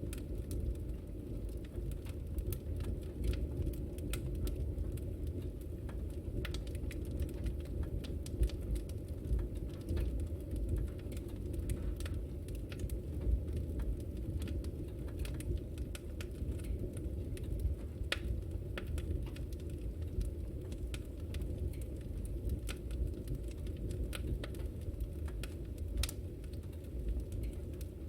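Wood fire burning in a fireplace: a steady low rumble of the flames with frequent irregular sharp crackles and pops from the burning wood.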